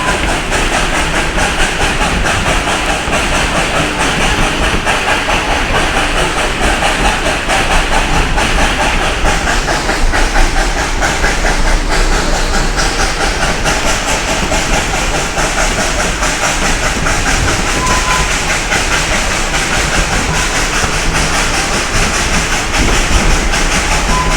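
Steam train running along the track, heard from aboard: a steady clatter of wheels over the rails mixed with the hiss of steam.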